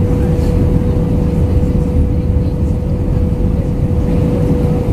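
Steady cabin noise inside an Airbus A319-112 airliner: a low rumble with one steady mid-pitched hum running through it.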